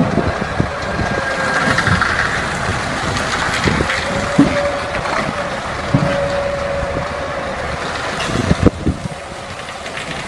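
Heavy vehicle engine running under load, with a wavering whine and scattered knocks and clunks. The loudest clunks come near the end.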